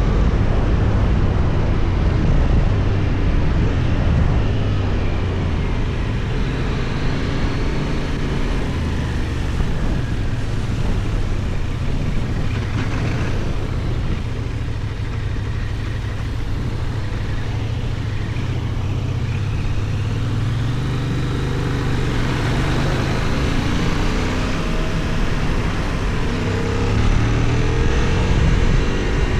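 Benelli Tornado 550's 554 cc parallel-twin engine with its 270° crank, running on the move under steady wind and road noise. Its pitch sinks in the middle, then rises twice as it accelerates in the second half.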